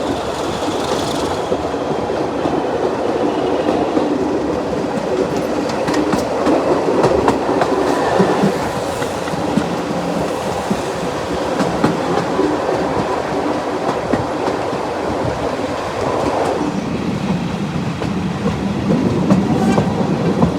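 Heard from on board a heritage railway train hauled by a Class 37 diesel: steady rolling noise of the coach's wheels on the track, with clickety-clack over the rail joints.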